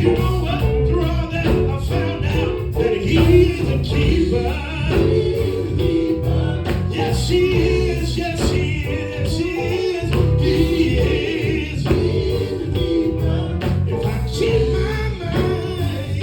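Male gospel vocal group singing with musical accompaniment.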